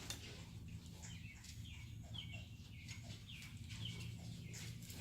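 Bird chirping faintly over and over, in short high chirps, with a steady low hum underneath.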